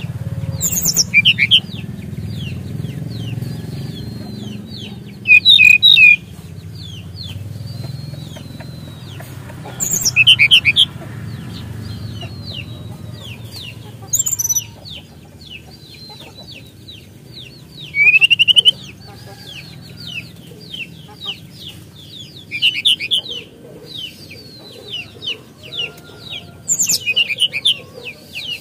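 Songbird of the kind sold in Indonesia as SRDC (sikatan rimba dada coklat, a jungle flycatcher) singing: a continuous run of quick downslurred whistled notes, broken about every four seconds by a much louder, sharp chattering phrase. A low hum runs underneath.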